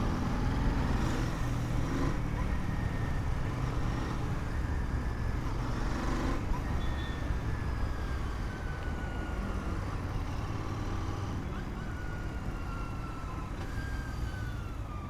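Motorcycle riding through traffic: a steady low rumble of engine and wind noise, with a faint falling tone twice in the second half.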